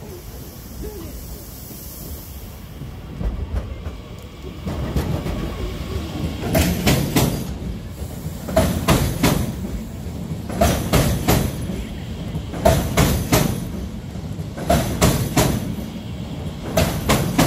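National Express class 442 (Bombardier Talent 2) electric multiple unit rolling slowly past close by. Its rumble builds from about three seconds in, then its wheels clatter over rail joints and points in clusters of sharp clicks about every two seconds.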